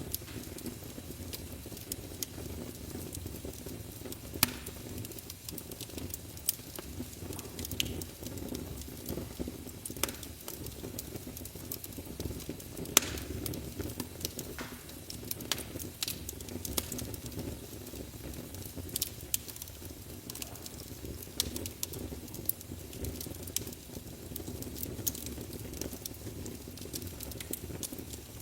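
Wood fire burning in a fireplace: a steady low rush of flames under frequent, irregular sharp crackles and pops from the burning wood, the loudest pop about thirteen seconds in.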